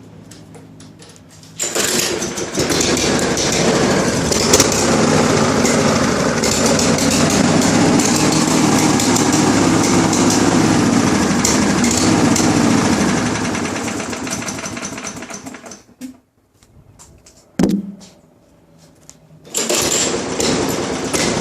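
Lawn mower engine starting up and running, then slowing and dying out about three quarters of the way through. A brief burst that winds down follows, then it catches and runs again near the end. This is a mower that won't stay running.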